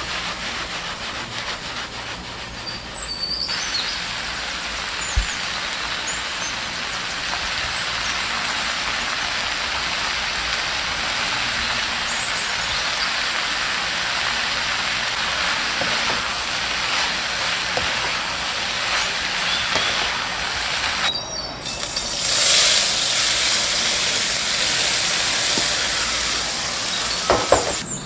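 Steady sizzling hiss of food cooking in a hot pan, with a few sharp clicks near the end.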